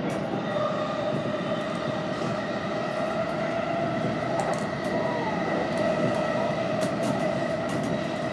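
Inside a Keihin-Tohoku Line E233-1000 series electric commuter train running between stations: a steady rumble of wheels on track with a steady whine over it, and a few sharp clicks around the middle and near the end.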